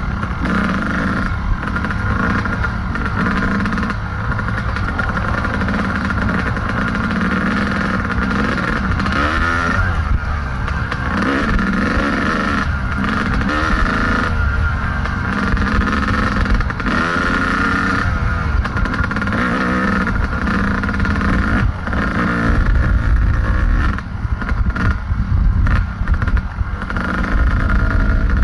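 Two-stroke dirt bike engine, a Kawasaki KDX220, run hard on a trail. It revs up and falls back again and again as the rider shifts and works the throttle.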